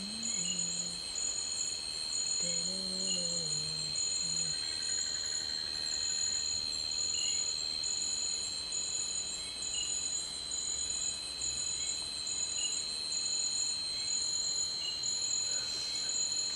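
Forest insects chirring: several steady high-pitched tones, one pulsing in an even rhythm. A low voice murmurs briefly twice in the first few seconds.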